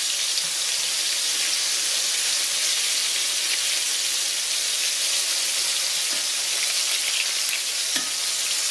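Corn-flour-coated catfish pieces frying in hot oil in a cast iron skillet: a steady, even sizzle, with a light click near the end.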